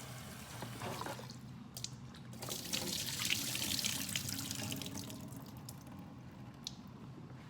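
Tap water running over cut vegetables being rinsed in a bowl, loudest a few seconds in and then easing off, with a few light knocks as the pieces are handled.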